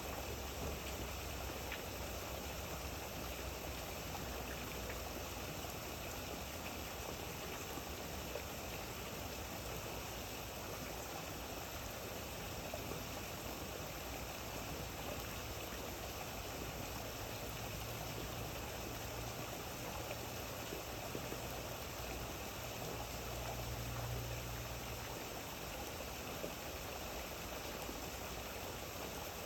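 Steady rain falling, an even wash of water noise, with a low rumble that swells for a few seconds past the middle.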